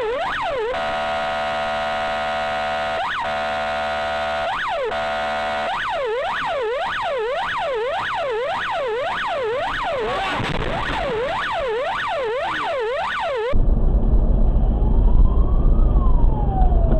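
Emergency-vehicle electronic siren in a fast yelp, rapid rising and falling sweeps, broken during the first six seconds by three stretches of a steady horn-like tone. It changes abruptly about 13 seconds in to a slow wail that rises and falls over a few seconds, with road rumble underneath.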